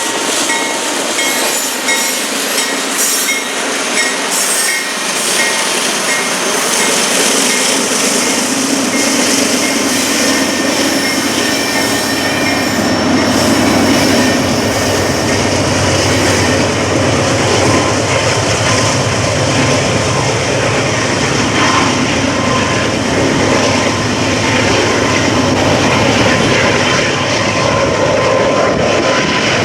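Norfolk Southern freight train rolling slowly past, its cars' wheels clicking over the rail joints, with a thin steady squeal from the wheels in the first half and rumble growing stronger later on.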